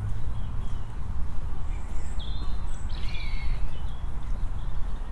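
A few short, chirping bird calls about two to three seconds in, over a constant low rumbling noise.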